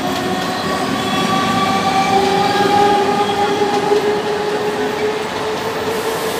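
Electric multiple-unit local train running past on the track: a steady rumble with several high whining tones that come in about two seconds in.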